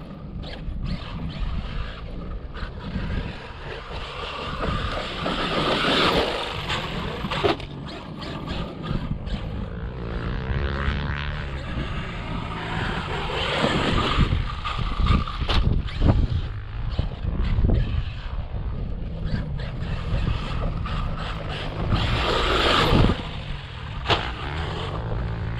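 Traxxas Maxx V2 RC truck's brushless electric drivetrain running hard with its tyres churning over dirt. The noise swells loudly several times as it passes, with a few sharp knocks along the way.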